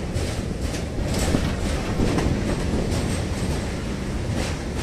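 Passenger train running across a steel truss bridge, heard from aboard the coach: a heavy, steady rumble of wheels on rails with frequent sharp clacks as the wheels pass over rail joints.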